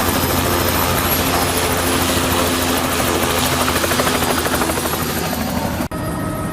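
Small five-passenger tour helicopter's engine and rotor running loud and steady, heard from inside the cabin, with a rapid rotor beat under the drone. Near the end it breaks off suddenly and comes back quieter.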